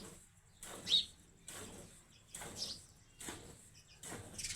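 Hand milking of a cow: short swishing squirts of milk into a bucket, repeating about every half second. A bird chirps once about a second in.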